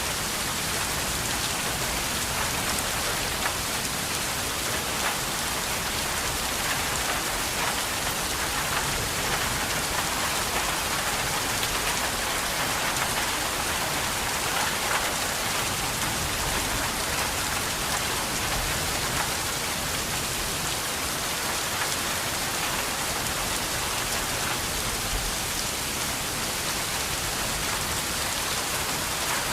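Steady heavy rain falling on a surface, a dense even hiss with many small drop patters.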